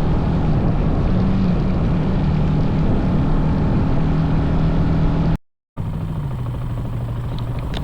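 Mini bike's small engine running steadily under way, with a buzzing, even pitch. About five and a half seconds in, the sound cuts off for a moment, then returns at a lower, steadier pitch.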